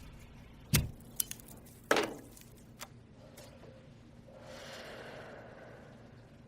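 Several sharp clicks and two loud knocks about a second apart, followed by a soft hiss that swells and fades, over a faint low hum.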